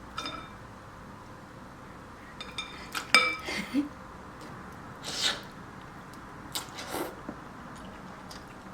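Spoon clinking against a ceramic soup bowl several times, with short ringing tones after the strikes, from about two and a half to four seconds in. There is a brief hissing noise about five seconds in, and a couple of soft knocks after it.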